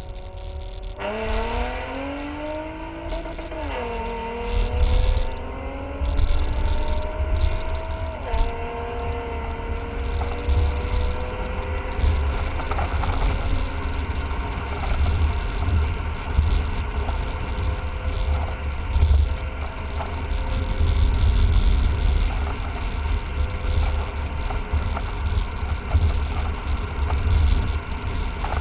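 BMW 5 Series engine heard from inside the cabin, pulling up through the revs with two upshifts of the manual gearbox, about four and eight seconds in, each dropping the pitch. After that it cruises at nearly steady revs under a heavy low road and wind rumble.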